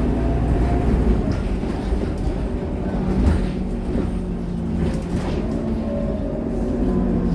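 Scania K230UB bus running along the road: a steady low drone of engine and road noise with faint whining tones that drift slightly in pitch, and a few brief knocks or rattles about three and five seconds in.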